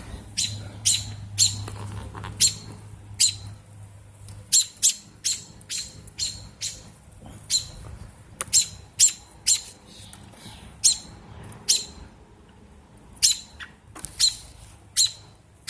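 American robin giving repeated sharp, high alarm calls, about twenty short calls irregularly spaced at roughly one a second: a robin defending its nest of young against an intruder.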